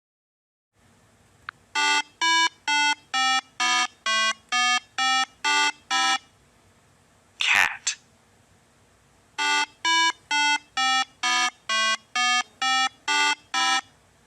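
A simple electronic tune of short beeping notes, each held at one pitch and stepping up and down from note to note, about two notes a second, in two phrases of about ten notes. Between the phrases a voice says "Cat."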